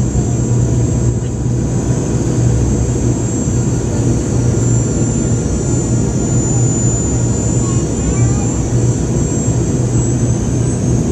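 Boeing 717-200 cabin noise from a rear window seat: a steady jet-engine drone with a low hum and a thin high whine, unchanging throughout.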